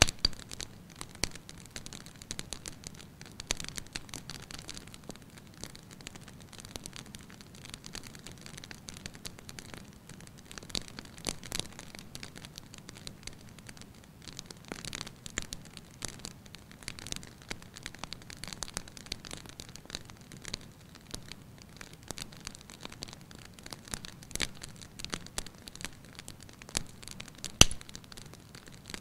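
Wood fire crackling in a fireplace: irregular snaps and pops over a soft low rumble of the flames, with one sharper pop near the end.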